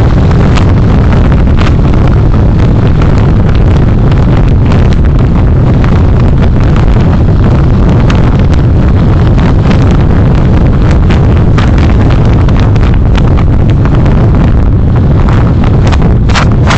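Car dashcam recording of a vehicle on the move: a loud, steady rumble of road and engine noise with many short clicks and knocks scattered through it, overdriven on the dashcam's microphone.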